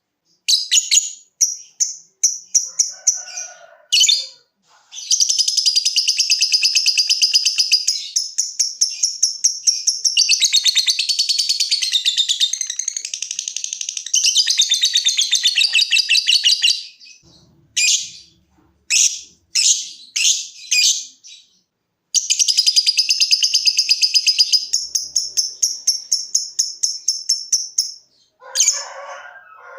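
Lovebird singing in its long 'ngekek' chatter: long runs of rapid, high-pitched trilled pulses, one lasting about twelve seconds. A few separate short chirps come in the middle.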